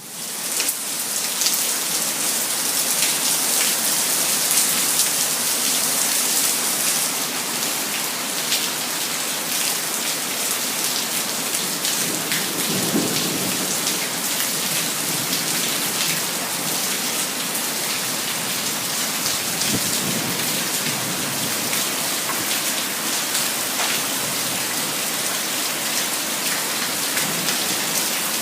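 Heavy rain pouring down steadily during a thunderstorm, with low rolls of thunder twice partway through.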